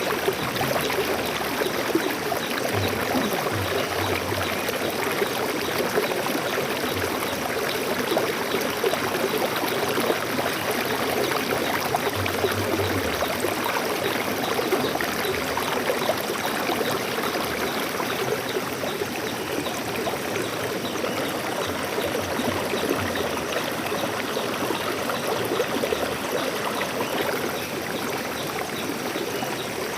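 Steady flow of a shallow stream over rocks, a continuous rushing and trickling with small bubbling sounds.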